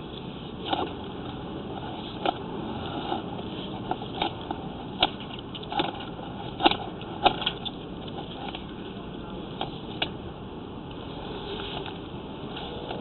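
Sewer inspection camera being pushed along the line: irregular sharp clicks and knocks, about a dozen, over a steady noise.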